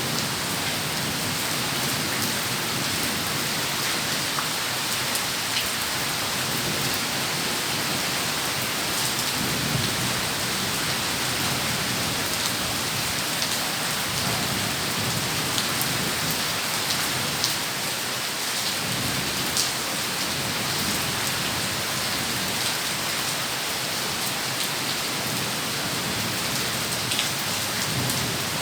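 Heavy rain pouring steadily, with low rumbles of thunder swelling and fading a couple of times.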